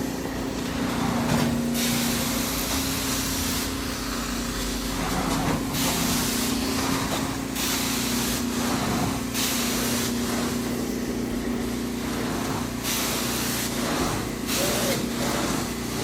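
Carpet extraction equipment at work: a steady machine hum with a high hiss of spray and suction that swells and fades in repeated strokes, every one to two seconds.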